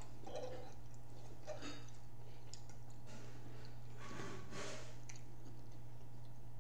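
Close-up eating sounds: chewing with small wet mouth clicks, the largest a little after the middle, over a steady low hum.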